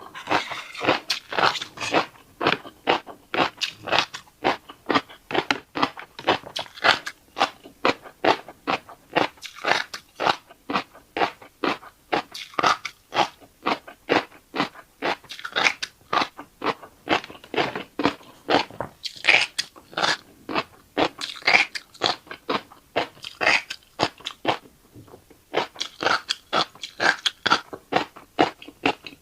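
Close-up eating of fish roe: rapid crunching and chewing, several crisp clicks a second, with a short lull near the end.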